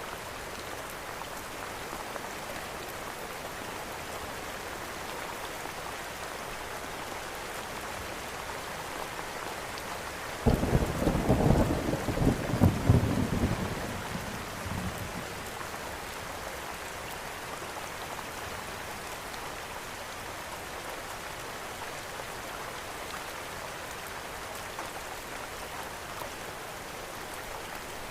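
Steady rain falling, with a sudden clap of thunder about ten seconds in that rumbles for a few seconds and fades back into the rain.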